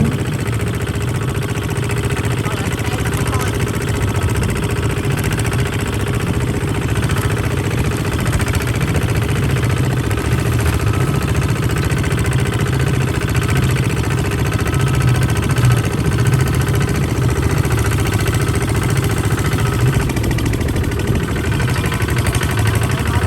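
Kubota RT140 DI single-cylinder diesel engine running steadily with an even, rapid chugging beat.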